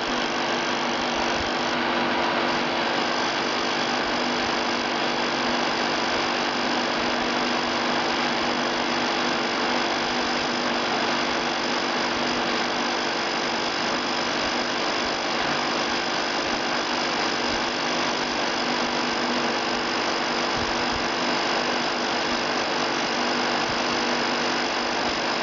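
Electric fan of a homemade cardboard-box evaporative air conditioner running steadily, pushing air out through a pipe: an even rush of air with a steady hum.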